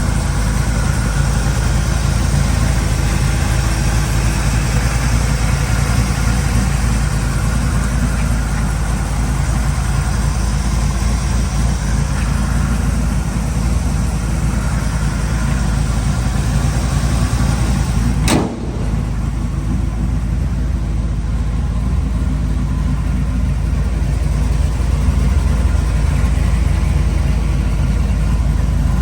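1955 Chevrolet Bel Air engine idling steadily, with one sharp click partway through.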